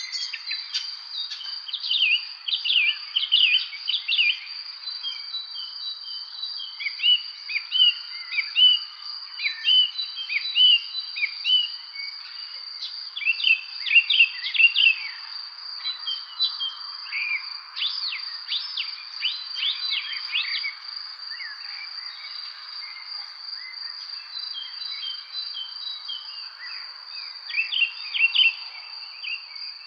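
Several songbirds chirping and singing in short, overlapping phrases, over a steady high-pitched insect trill that never stops.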